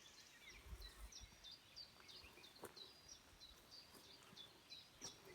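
Faint birdsong: a small bird repeating short, high chirps a few times a second, with a faint click about two and a half seconds in.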